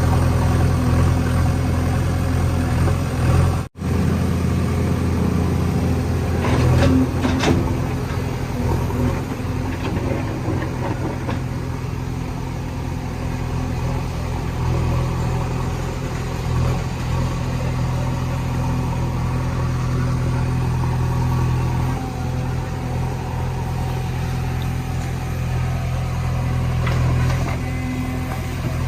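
JCB backhoe loader's diesel engine running steadily under work, with a few sharp clanks about seven seconds in. The sound cuts out for an instant a few seconds in.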